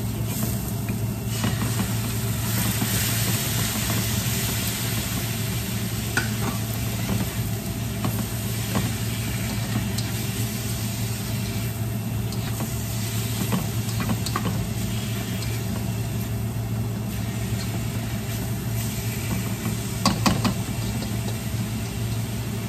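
Food sizzling in a wok as it is stir-fried, with the utensils scraping and tapping against the pan now and then, several times in quick succession near the end. A steady low hum runs underneath.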